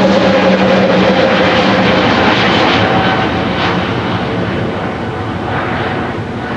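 Airbus A320neo-family jet with Pratt & Whitney PW1100G geared turbofan engines climbing out on takeoff close overhead: a loud, booming jet rumble with a steady hum in it, slowly fading as the plane passes.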